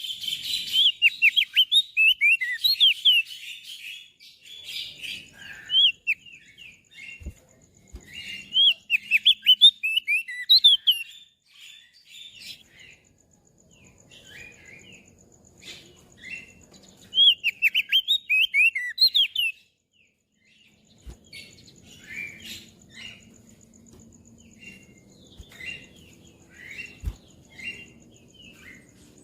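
Crested white-eye (opior jambul) singing in bursts of rapid, twittering chirps. The three loudest phrases come at the start, about a third of the way in and about two-thirds of the way in, with softer scattered notes between them.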